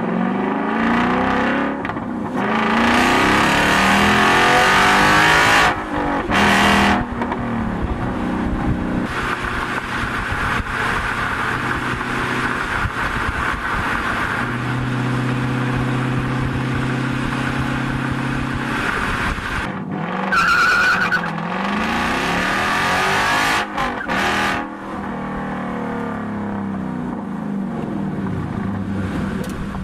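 V8 muscle car engine revving and accelerating, its pitch sweeping up and falling back several times, with abrupt cuts between runs. There is a short high squeal about twenty seconds in.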